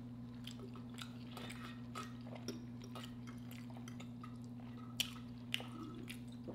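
Quiet close-miked eating sounds: chewing with small mouth clicks and light fork taps on a plate, with two sharper clicks about five seconds in. A steady low hum runs underneath.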